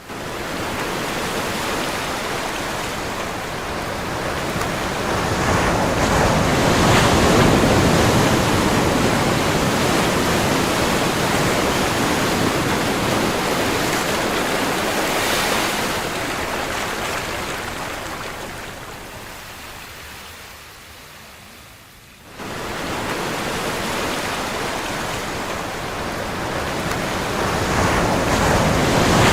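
Ocean surf: waves breaking and washing in a continuous rushing hiss that swells and slowly fades, then comes back up abruptly about 22 seconds in.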